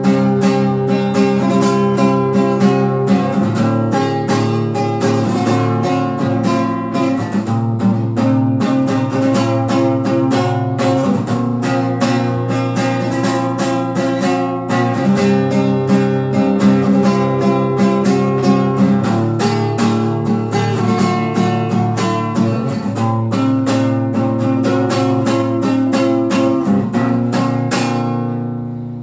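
Acoustic guitar strummed in a fast, steady rhythm of full chords. Near the end the strumming stops and the last chord rings out and fades.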